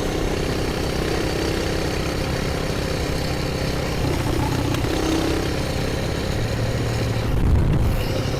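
Coleman BT200X mini bike's single-cylinder four-stroke engine running steadily through a straight pipe while riding at speed, with wind noise, picked up by a microphone inside the rider's helmet. The engine note swells briefly near the end.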